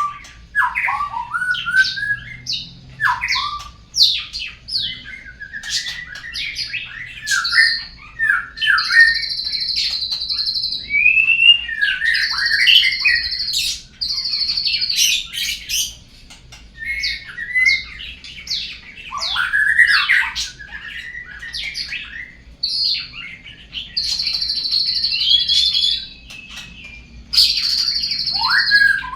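Murai batu (white-rumped shama) song, played as a lure recording to set a caged murai singing. It runs almost without a break: varied phrases of long, held high whistles alternate with sliding notes and quick chattering runs.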